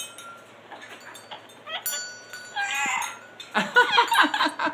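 Amazon parrot calling: one short call about two and a half seconds in, then a quick run of laugh-like calls near the end. A brief high ringing tone sounds about two seconds in.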